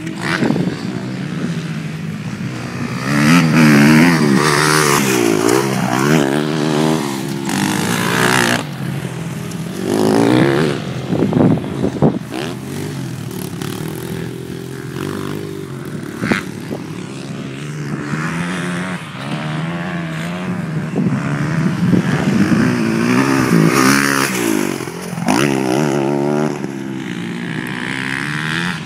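Motocross dirt bikes' engines revving hard and backing off over and over as they ride the track, the pitch rising and falling with each throttle change and several louder surges as bikes pass close.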